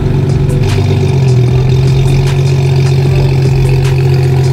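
Car engine running at steady revs, its note changing about a second in.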